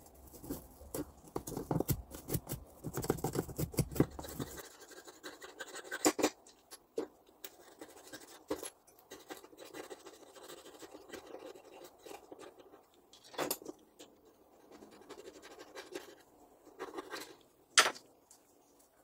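Hand work on small parts: dense scratching and scraping with quick clicks for the first few seconds, then occasional light clicks and taps, with one sharp click near the end.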